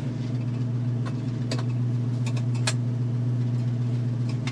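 1967 Ford Mustang's 302 V8 idling steadily, with Flowmaster mufflers on its dual exhaust, heard from inside the cabin. A few light clicks come in the middle.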